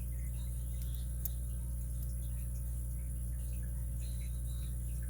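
Faint, scattered clicks of a lock pick and tension tool working the pins in the core of a Master 930/950 padlock, over a steady low hum.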